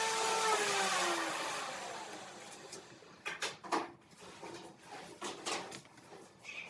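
A power tool's electric motor spinning down after being switched off: its whine holds briefly, then falls in pitch and fades over the first second or so. Afterwards there are a few light clicks and knocks.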